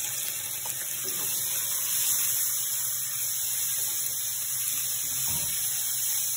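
Marinated pork slices sizzling in a hot wok: a steady frying hiss, with the odd scrape of a wooden spatula stirring them.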